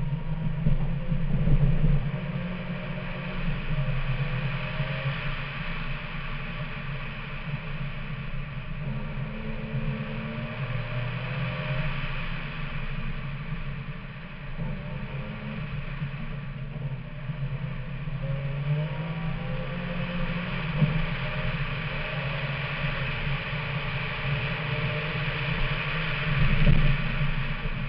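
Rallycross car's engine, heard on board, revving up and dropping back again and again as the car accelerates and lifts around the circuit, over steady tyre and road noise.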